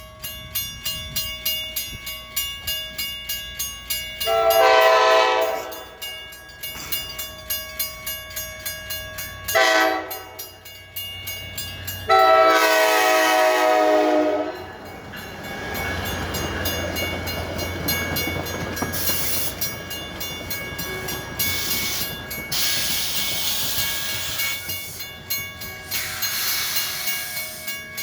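NJ Transit train horn sounding a long, a short and a long blast as the train approaches, over a bell dinging steadily about twice a second. The train then rolls in with a steady rumble of wheels on rail.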